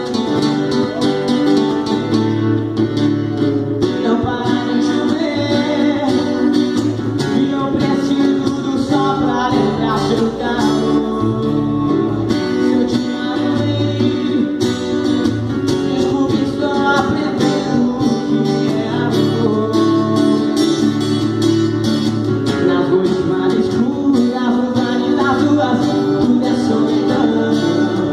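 Live sertanejo song: strummed acoustic guitar over sustained low bass notes, with a melody line that may include singing.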